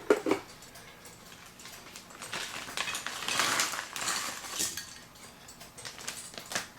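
Small hard parts being handled: a few sharp clicks and clinks near the start and end, with a longer stretch of rattling and rustling in the middle.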